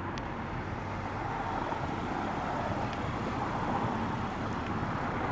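Steady vehicle road noise while moving, an even rush with a low hum underneath.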